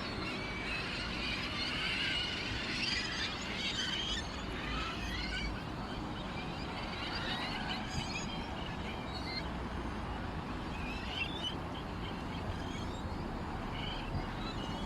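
A flock of sparrows chirping and chattering, thick with calls in the first few seconds and then sparser, over a steady low background rumble.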